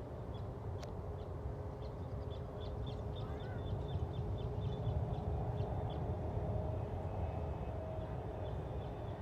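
Steady low rumble of a jet airliner's engines, a Boeing 777, heard at a distance. A bird chirps rapidly over it, about four short chirps a second, from about two to six seconds in.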